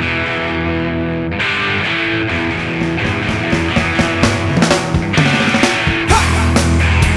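Instrumental rock music: sustained electric guitar chords, with drum hits coming in about three seconds in and growing denser. Near the end the full band enters with heavy bass.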